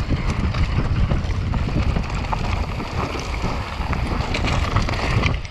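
Wind rushing over the microphone at downhill mountain-bike speed, with the bike rattling and its tyres clattering over rough ground in many short clicks.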